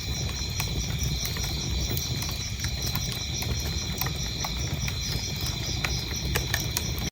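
Wood fire crackling, with a low steady rumble and scattered sharp pops, while crickets chirp in a steady, evenly pulsing rhythm.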